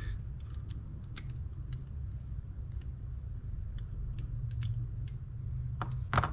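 Light clicks and taps of small metal parts and tools being handled while a Shimano Stella FE spinning reel is taken apart, scattered over a steady low hum, with a sharper, louder click just before the end.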